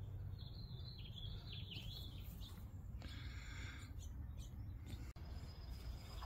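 Faint birds chirping several times in the first couple of seconds, over a steady low background rumble.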